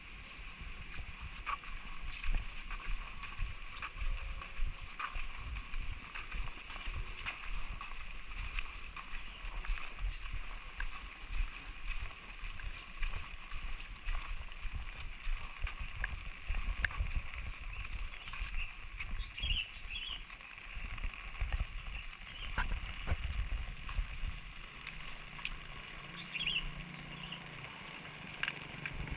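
Outdoor ambience of a walk in light drizzle: a steady hiss with scattered small ticks of drops and irregular low thumps of footsteps. Two brief high chirps sound about two-thirds of the way in and near the end.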